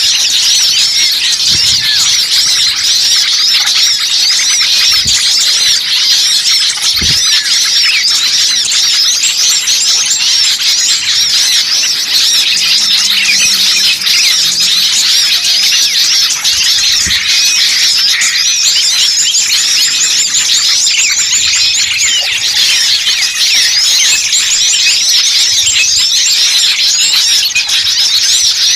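A dense chorus of many small songbirds chirping and trilling at once, with calls overlapping without a break. This is a bird-lure recording of noisy, agitated small birds, the kind played to draw wild birds in.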